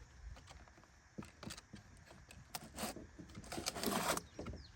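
Hands handling small metal parts and an oil bottle: scattered light clicks and taps, then a short rustling scrape near the end.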